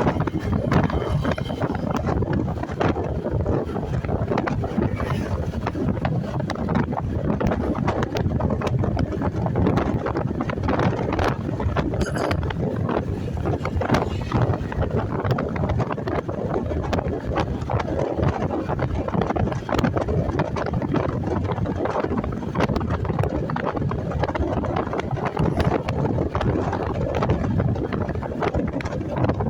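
Steady wind rush buffeting the microphone on a moving motorcycle, with the bike's engine and road noise underneath.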